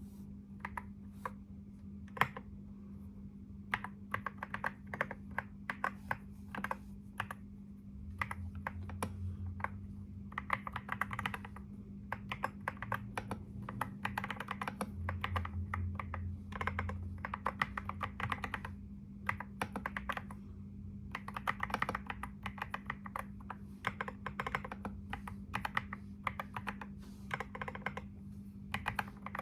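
Typing on a computer keyboard: rapid runs of keystrokes in bursts, with brief pauses between them, over a steady low hum.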